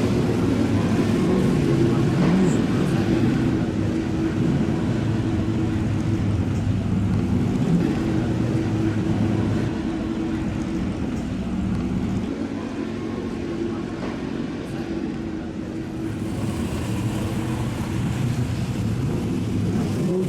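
Car engines running at a fairly steady speed, with a pitch that rises and falls about two seconds in and shifts again several times.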